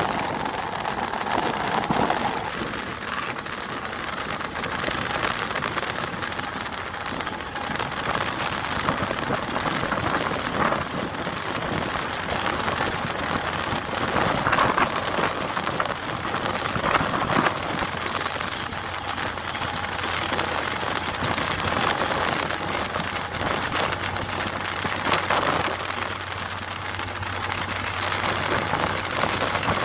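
Passenger train running at speed, heard from an open coach window: a steady rush of wheel-on-rail noise and wind, thick with fine rattling clicks.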